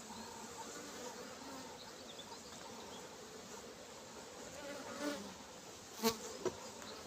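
Honeybees humming steadily around an open hive, with one bee buzzing louder close by about five seconds in. Two sharp knocks near the end.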